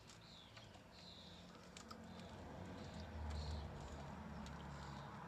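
Light clicks and handling of stairlift chair cable plugs being worked loose and pulled through the carriage, over a faint low hum that swells about three seconds in, with short high chirps repeating about once a second.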